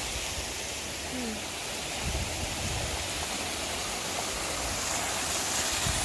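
Water from a park fountain splashing and running steadily into a pond.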